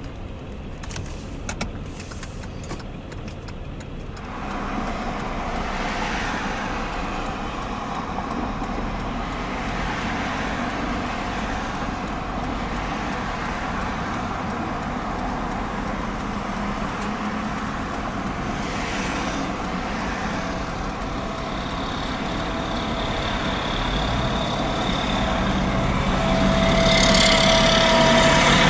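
Traffic noise on an interstate highway: vehicles passing with tyre and engine noise that gets louder about four seconds in, then rises again near the end as a heavy engine comes close.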